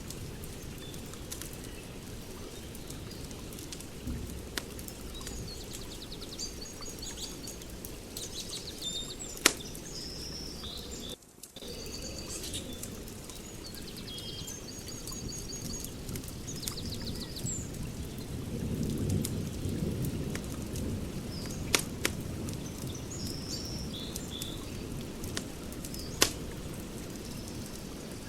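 Wood fire crackling in a fire pit: a steady low rumble with scattered sharp pops, a few of them louder. Small birds chirp in short repeated phrases over it, and the sound drops out briefly about eleven seconds in.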